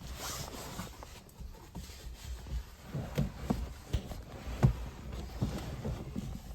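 Light handling noises: scattered soft knocks, clicks and rustles over a low rumble.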